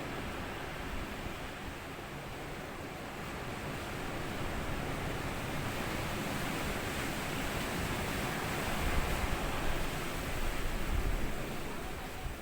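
Sea waves breaking and washing up a sandy beach in a steady wash of surf. The wash builds about four seconds in and surges loudest with a low rumble near the end.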